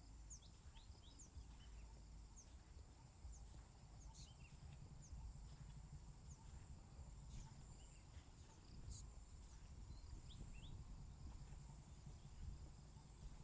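Faint countryside insect chorus: a steady high-pitched drone, with many short, quick falling chirps over it and a low rumble underneath.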